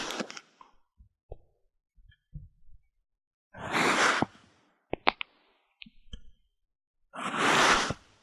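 Kinetic sand being cut and crushed: three gritty, crunching swishes about three and a half seconds apart, with a few sharp clicks and soft taps between them.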